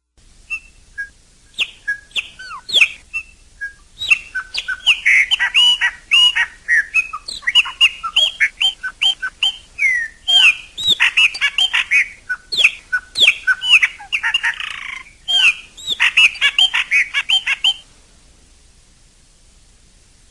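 Chopi blackbird singing: a few scattered whistled notes, then from about four seconds in a long, dense run of rapid, varied whistles and chirps that slide up and down in pitch and stop abruptly near the end.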